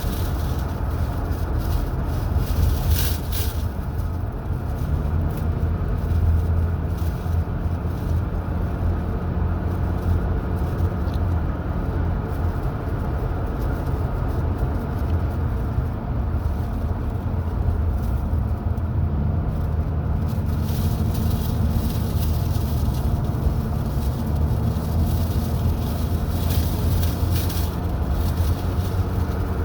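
Car driving along a road: a steady low engine and road drone, the engine note shifting pitch a few times as the speed changes.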